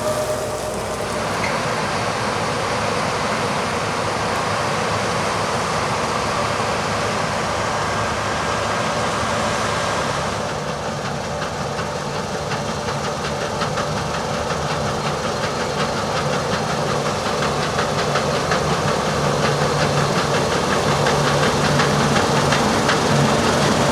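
Heavy diesel harvest machinery running steadily. The sound changes abruptly about ten seconds in, then carries a fast rattling and grows a little louder near the end.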